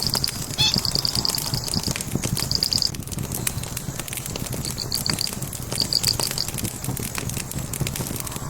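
Burning logs crackling and popping over the low rumble of the flames. Rapid high-pitched chirping trills run through the first three seconds and come twice more, briefly, about five and six seconds in.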